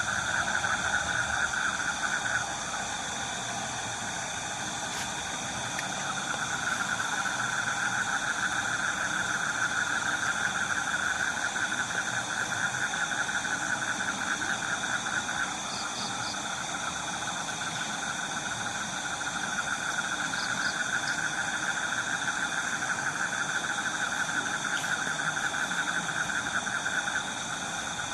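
Steady chorus of insects in the forest: a high, pulsing buzz that thins for a few seconds near the start, then swells again.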